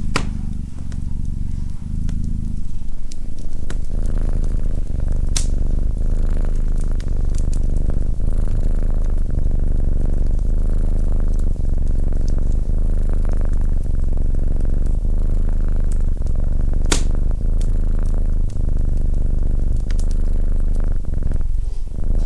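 A domestic cat purring steadily and loudly close to the microphone, with two sharp pops from a wood fire, about five seconds in and again about seventeen seconds in.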